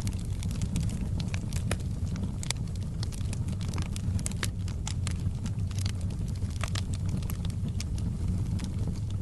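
Wood fire burning in a fireplace: a steady low rumble of flame under frequent, irregular sharp crackles and pops from the burning wood.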